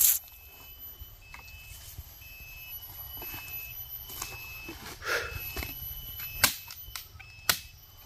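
A bird calling a short, high single note over and over, every half second to a second. Two sharp knocks come near the end.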